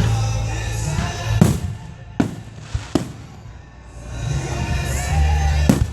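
Aerial fireworks bursting: four sharp bangs spread over a few seconds, with music with heavy bass playing underneath.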